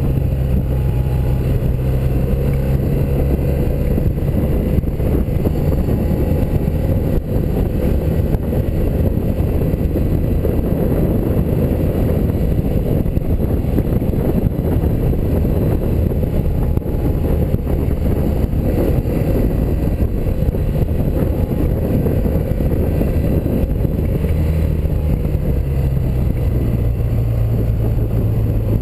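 1984 BMW R100RS air-cooled flat-twin engine running steadily under way, heard over a dense rush of wind and road noise. The engine note shifts a little near the end.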